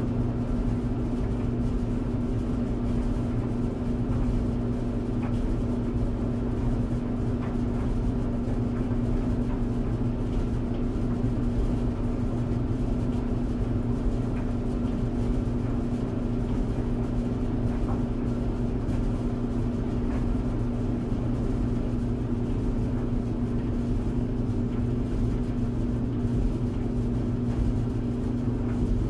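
Tumble clothes dryer running: a steady motor hum and drum rumble with a constant low tone, and faint light ticks scattered through it.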